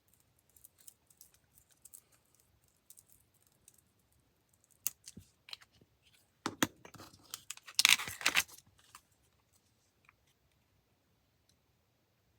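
Paper and craft supplies being handled on a desk: scattered small clicks and rustles, with a louder stretch of paper noise about seven to nine seconds in.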